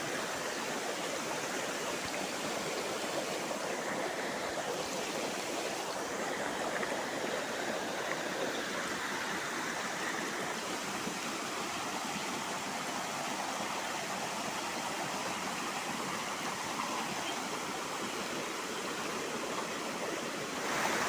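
Steady rushing of the Saltão waterfall on the Ribeirão das Pedras, water pouring over rock without a break.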